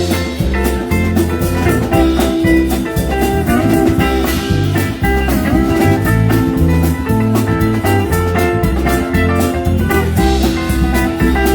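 Live band playing an instrumental passage with a steady beat: guitar over bass and drums, no vocals.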